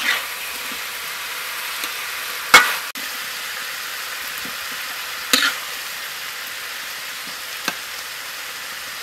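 Stir-fried pork and vegetables sizzling in a wok, a steady hiss, with three sharp knocks of the metal spatula, the loudest about two and a half seconds in.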